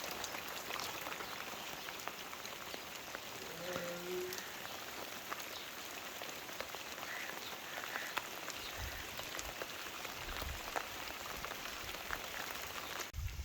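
Steady rain falling, with the tapping of individual drops over an even hiss.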